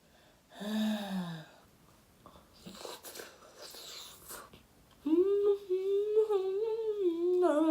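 A woman humming an appreciative "mmm" while eating. A short falling hum comes about a second in, then soft chewing and mouth noises, then a long wavering hum over the last few seconds.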